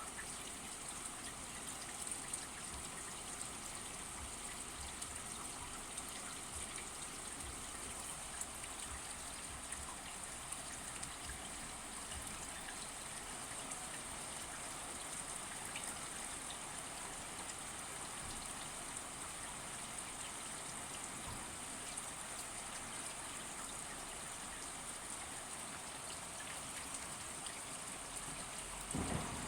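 Steady rain falling, an even hiss with scattered drop ticks. In the last moment a thunder rumble begins to rise.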